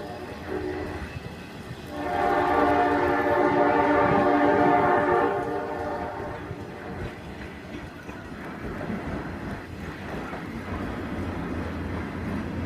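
Train horn sounding a brief blast, then a long chord of several tones held for about four seconds, fading into the steady low rumble of the passing train.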